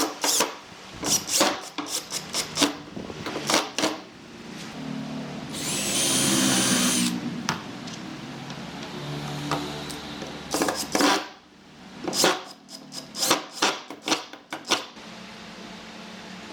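Woodworking sounds: a run of sharp taps and knocks, then a small power tool's motor whining steadily for about two seconds, then more scattered knocks.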